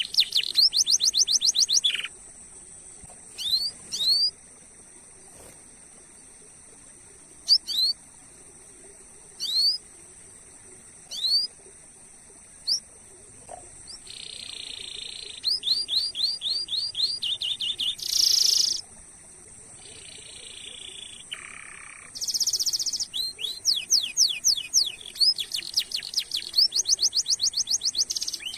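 Domestic canary singing: quick runs of sharply falling high notes, a few single chirps spaced out in a quieter middle stretch, then long rolling trills near the end.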